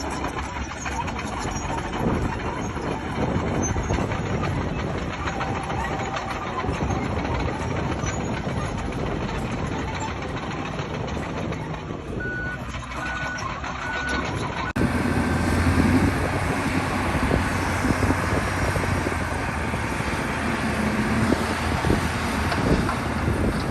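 A heavy earthmoving machine's engine runs steadily, with three short backup-alarm beeps about twelve seconds in. About halfway through, the sound cuts abruptly to louder, heavier engine noise.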